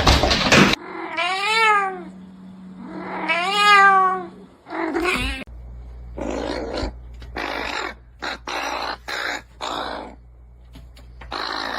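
A cat giving two long, drawn-out meows, each rising and then falling in pitch, followed by a string of short noisy bursts.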